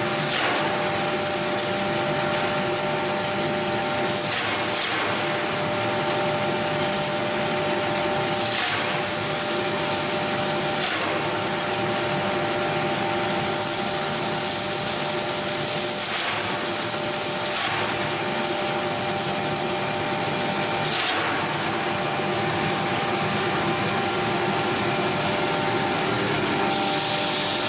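Wood-processing machine running steadily: a loud, even mechanical rush with several steady whining tones, and a brief surge every few seconds.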